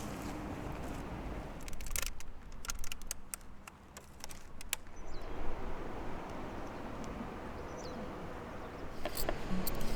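Outdoor ambience of a wood campfire: a steady hiss with scattered sharp crackles and pops, and two brief faint bird chirps.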